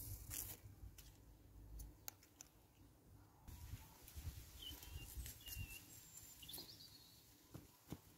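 Near silence in a garden, with a few faint, short bird chirps in the middle and a low rumble underneath.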